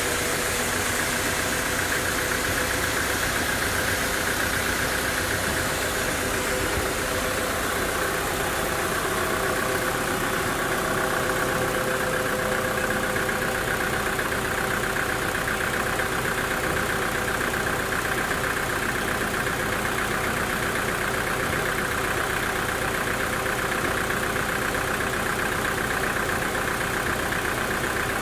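Sawmill machinery running steadily: a constant engine drone with a steady high whine.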